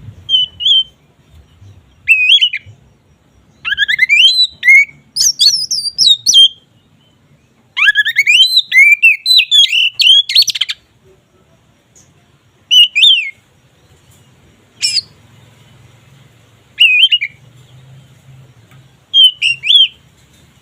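Oriental magpie-robin (kacer) singing its full, open 'ngeplong' song: two long runs of rapid whistled notes sliding up and down, with shorter phrases before them and single short calls spaced a couple of seconds apart near the end.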